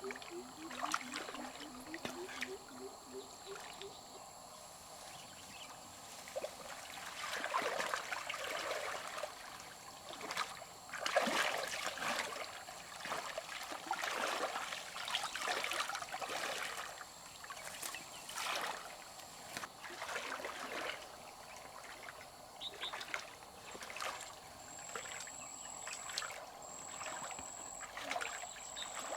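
Shallow river water splashing and trickling, with irregular louder surges of splashing every few seconds over a faint steady flow.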